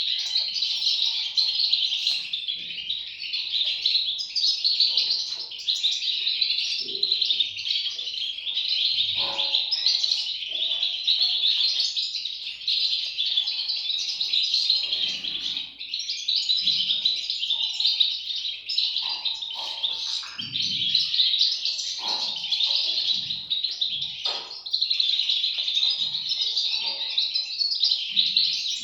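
A brood of European goldfinch chicks chirping continuously, a dense high twittering with no pauses.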